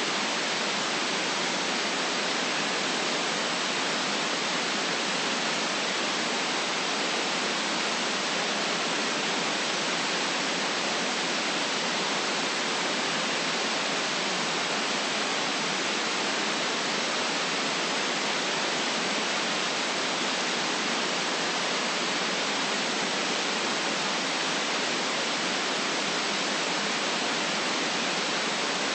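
Steady, unchanging white noise: an even hiss with no low rumble, holding one level throughout.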